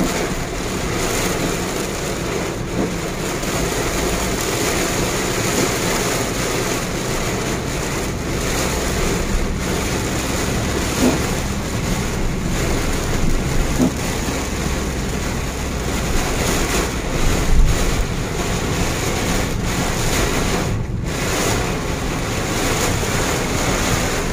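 Heavy rain in a windstorm beating on a car's windscreen and roof, heard from inside the car: a loud, steady, dense hiss.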